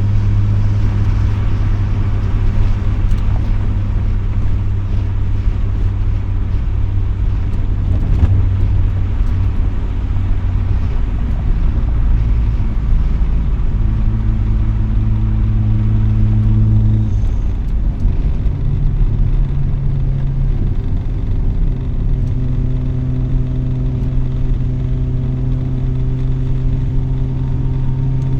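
Mazda RX-7's rotary engine through an RE Amemiya Dolphin Tail exhaust, heard from inside the cabin with the windows down while driving. The note holds steady, shifts pitch a few times about halfway through, then rises slowly as the car gathers speed near the end.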